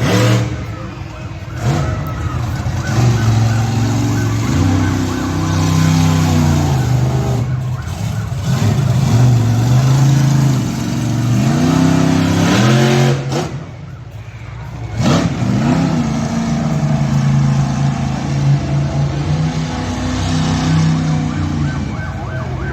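Monster truck engine revving hard, its pitch climbing and falling again and again as the throttle is worked through the run, with short drops where the throttle is let off about a third and about two-thirds of the way through.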